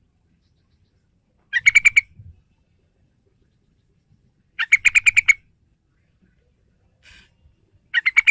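Yellow-vented bulbul (trucukan) calling: three short bursts of quick, bubbly chattering notes, about three seconds apart, the last one starting near the end.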